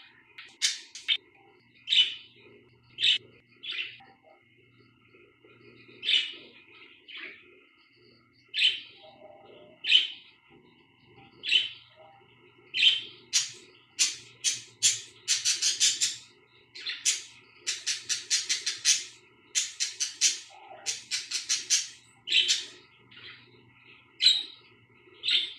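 Budgerigars chirping: short sharp chirps, spaced out at first, then coming in quick runs of several a second from about halfway through.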